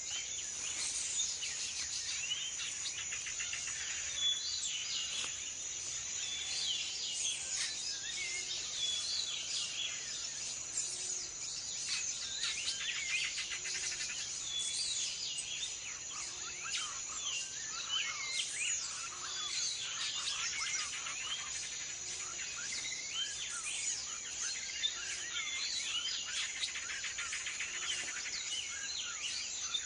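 Tropical rainforest ambience: a steady high-pitched insect drone with many birds chirping and calling over it.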